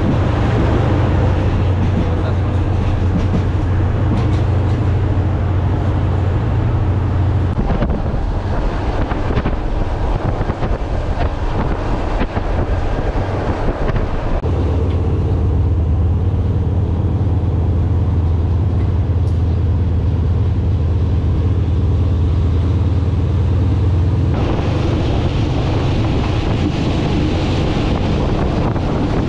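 A diesel passenger train running at speed, heard from inside a carriage with its windows open: a steady deep rumble of the train underway with wind rushing in. The deep rumble eases for several seconds partway through, and the wind hiss grows stronger near the end.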